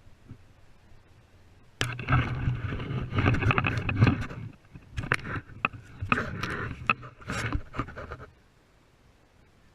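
Water splashing and knocking on a kayak, loud and irregular for about six seconds, with many sharp knocks, starting a couple of seconds in.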